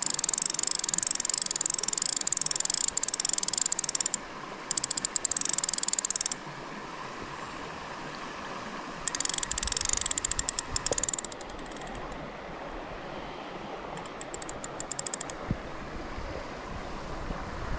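Bursts of rapid, high-pitched clicking, each lasting one to four seconds and starting and stopping abruptly, four times, over a steady rush of moving water.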